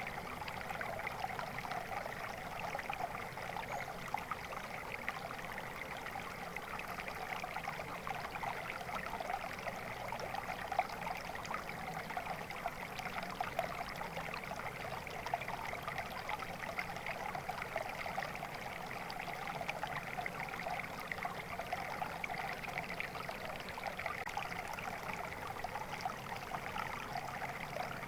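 Water flowing steadily in a stream, a continuous babble and trickle with no change.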